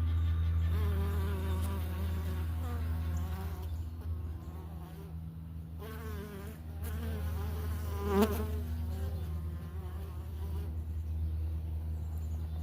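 Italian honey bees buzzing: a steady hum of many bees, with single bees flying close past, their pitch bending up and down. One passes especially close about eight seconds in.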